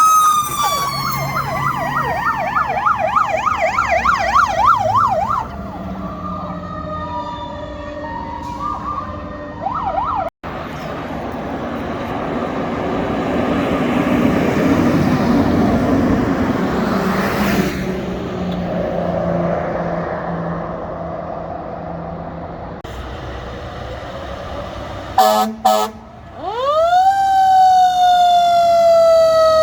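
Fire truck sirens: a wailing siren winding down with a fast warbling yelp over it for the first few seconds. Engine and road noise of a truck pulling past follows, then a few short horn blasts, and near the end a siren winds up sharply and then slowly drops in pitch.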